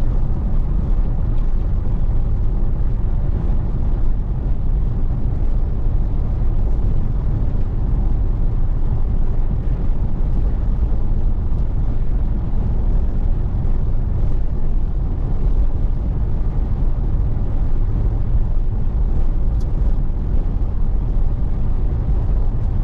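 Steady low rumble of road and engine noise inside a moving Pontiac Firebird at cruising speed.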